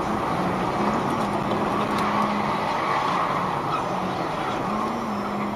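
A car driving: steady road and engine noise, with an engine hum that shifts slightly up and down in pitch.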